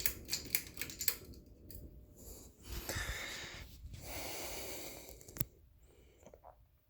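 A run of sharp clicks as a ceiling fan is switched off for its spin-down, then two stretches of breathy noise and a single sharp click about five and a half seconds in, after which it goes quiet.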